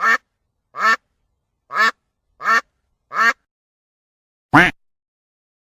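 A duck quacking six times in short, separate quacks, the last one the loudest.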